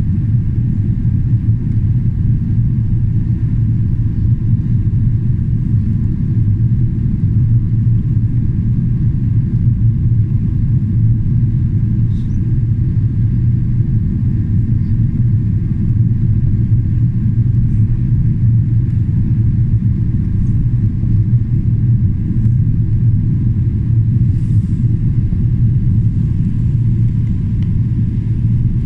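Steady low cabin drone of a Boeing 777-300ER in flight, heard from inside the passenger cabin: its two General Electric GE90 engines and the airflow over the fuselage.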